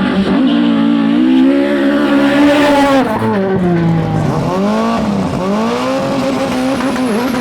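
Rally car engine driven hard: it revs up and holds a high pitch, drops about three seconds in, then dips and climbs again several times.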